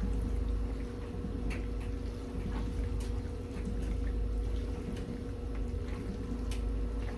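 A spoon stirring a thick, cheesy chicken casserole mixture in a pot, wet stirring with scattered light clicks of the spoon against the pot, over a steady low hum.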